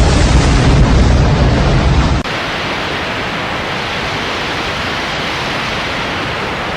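Loud, steady rushing noise, deep and rumbling for the first two seconds, then after a sudden change a thinner, hissier rush.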